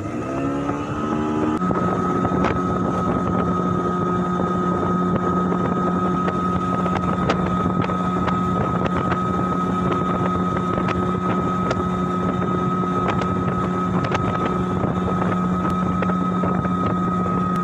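Boat engine revving up over the first second and a half, then running steadily at speed, with a constant drone and rush of wind on the microphone.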